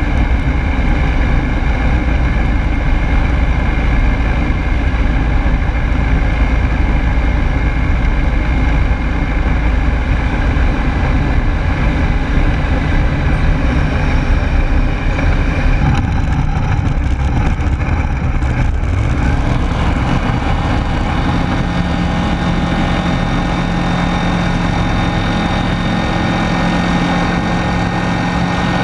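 Rotax 912S flat-four engine and propeller of a Rans Coyote S6 ultralight running steadily in flight, heard from inside the cockpit. Past the middle the sound shifts to a steadier, more even hum.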